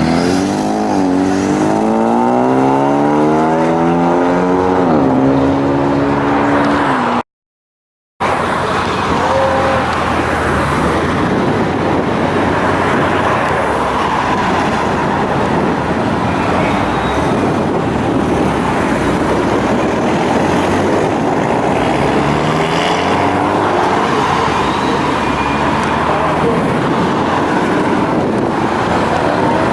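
Car engines revving and accelerating away one after another, their pitch rising and falling for the first seven seconds. After a one-second drop to silence, a dense steady din of engines and tyre noise follows, with a few more engines rising in pitch near the end.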